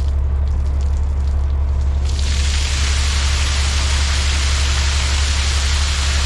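Diesel dump truck idling with a steady low hum; about two seconds in, a steady rushing hiss starts and holds, rainwater pouring out of the raised dump trailer.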